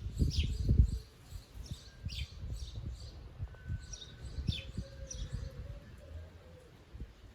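Small songbirds chirping: short notes that slide downward, repeated several times a second. Under them is an uneven low rumble, loudest in the first second.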